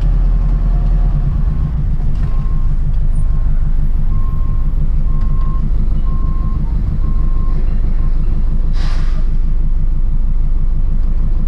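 Truck engine running with a steady low rumble, while a reversing alarm beeps about once a second for several seconds. A short hiss sounds about nine seconds in.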